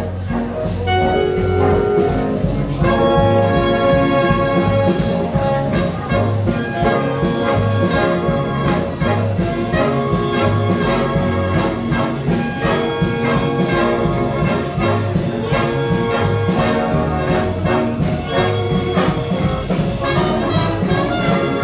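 Brass-led jazz band music, with trumpets and trombones playing held, stacked notes over a steady rhythmic beat.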